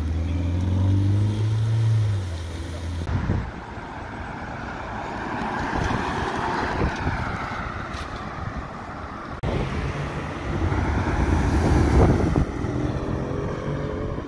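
Ferrari 488 Pista's twin-turbo V8 running low and pulling away slowly, its revs rising a little. About three seconds in it gives way to a truck's tyre and engine noise swelling as it drives past and fading. Near the end another car's engine swells as it passes.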